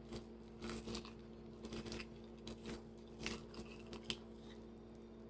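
Someone chewing burnt fried chicken: faint, irregular crunches and wet mouth clicks over a steady low hum.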